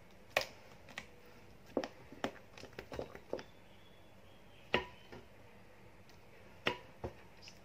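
Scattered light clicks and knocks of a utensil against a mixing bowl as cake batter is mixed, with a small cluster about three seconds in.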